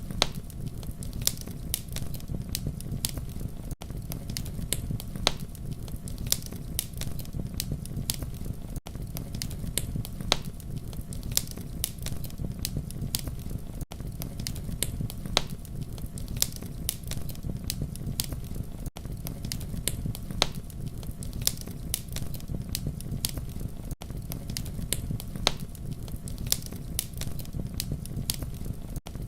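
Campfire crackling: a steady low rumble of flames with sharp, irregular pops and snaps several times a second. There is a brief dip in level about every five seconds.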